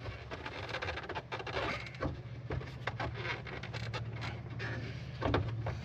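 Plastic headlight housing being worked into place on a 2005 Chevy Silverado, with scattered small plastic clicks and knocks as its tabs are pushed toward their slots. A louder knock comes near the end, over a steady low hum.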